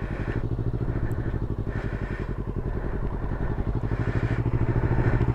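Motorcycle engine running steadily at low revs with an even firing pulse, getting gradually louder.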